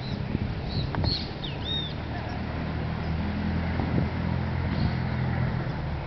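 A few short bird chirps in the first two seconds over a steady low rumble, with wind on the microphone.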